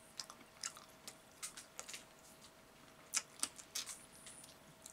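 Close-miked mouth sounds of eating fried chicken with the fingers: faint wet chewing and irregular lip smacks, the loudest a little past three seconds in.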